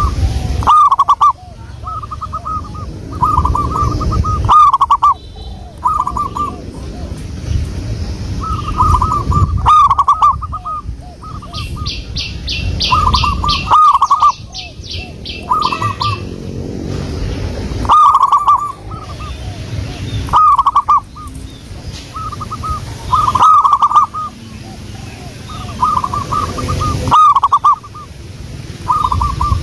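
Zebra dove (perkutut) cooing: short phrases of quick trilled coos repeated every one to three seconds. A rapid run of higher notes from another bird comes in about midway for a few seconds.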